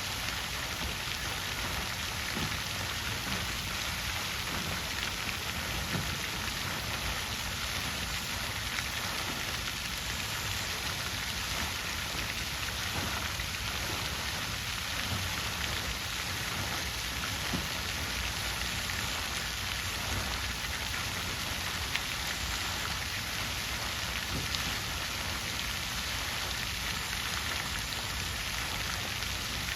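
Water fountain with falling water splashing steadily, an even patter with no change.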